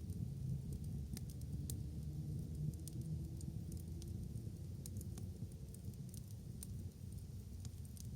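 Wood bonfire crackling, with scattered sharp pops and snaps over a steady low rumble.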